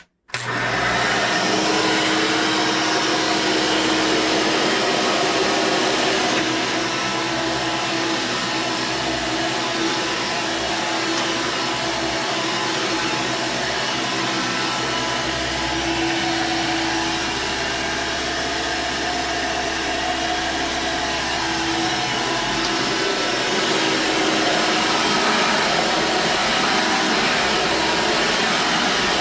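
Hoover commercial lightweight upright vacuum cleaner running steadily, a 6-amp motor with a constant hum and rushing air, starting abruptly just after the beginning.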